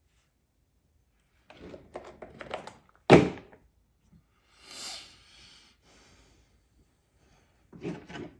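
Handling knocks from work on chainsaw parts: a run of small clatters, then one loud thunk about three seconds in, a short hiss about five seconds in, and another brief clatter near the end.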